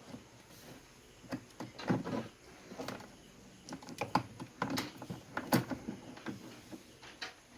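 Irregular clicks, taps and knocks of hands and tools handling the washing machine's wiring and parts, loudest about two seconds in and again past the middle.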